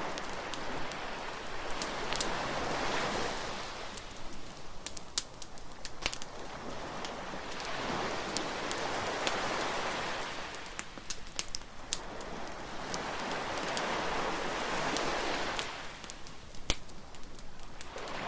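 Surf washing up on a beach in three slow swells, with the sharp crackles and pops of a wood bonfire scattered throughout and one louder pop near the end.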